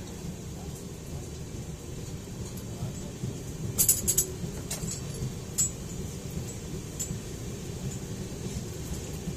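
Passenger train running, heard from the open doorway of a coach: a steady low rumble. About four seconds in, a quick cluster of sharp metallic clinks, the loudest sound, followed by a few single clinks.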